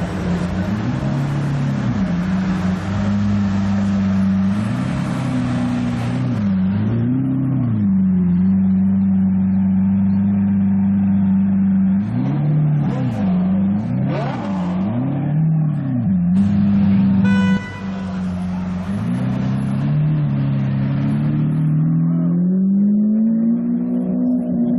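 A supercar engine running at a steady low idle, blipped up and down with short revs several times in a row and given a longer rise in revs near the end.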